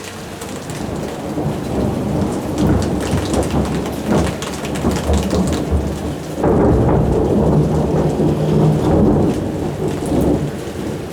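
Long rolling thunder rumbling over steady rain. The rumble swells suddenly about six seconds in and dies back near the end.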